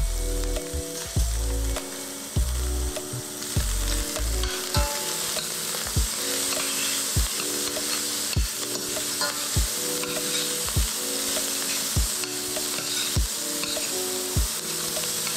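Kale and smoked turkey meat sizzling in hot olive oil in a stainless steel sauté pan while being stirred with a spoon; the sizzle grows louder a few seconds in. Background music with a slow steady beat plays underneath.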